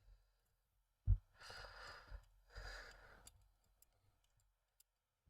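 A man's two long sighing exhalations, after a low bump about a second in, followed by a few faint light clicks of small plastic model parts being handled.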